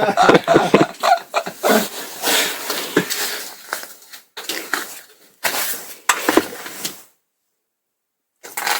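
Ripstop nylon paraglider fabric rustling and crinkling in irregular bursts as it is handled, with a little speech at the start. The sound cuts to dead silence for about a second near the end.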